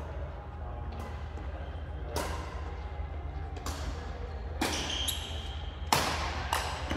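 Badminton rally: rackets striking the shuttlecock, six sharp hits at uneven intervals, the loudest about six seconds in, over a steady low hum.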